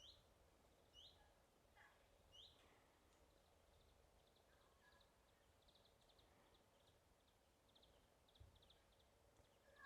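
Spotted woodpecker giving three sharp single high calls in the first few seconds, followed by faint clusters of quick high ticking calls.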